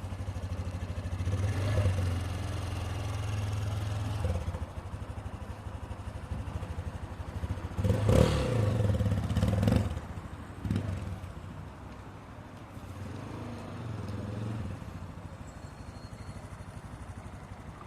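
Honda Grom's 125 cc single-cylinder four-stroke engine running as the bike is ridden. It revs up twice, then eases off and gets quieter through the second half.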